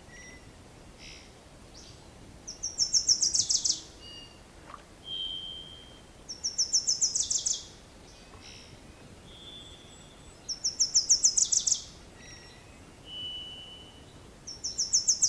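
A songbird repeating the same song four times, about every four seconds: a fast run of high notes falling in pitch, each run lasting a little over a second, with short single whistles in between.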